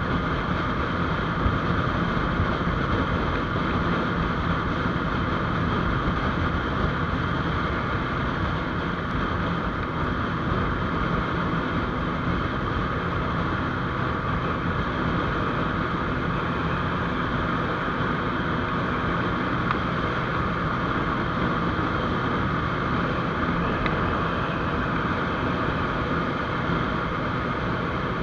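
GPX GR200R single-cylinder motorcycle cruising at a steady speed, its engine running evenly under wind noise on the microphone.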